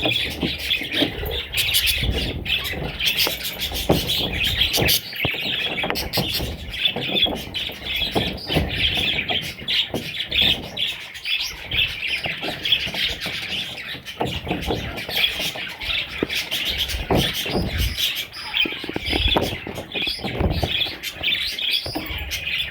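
A group of budgerigars chirping and warbling continuously, with occasional low thumps.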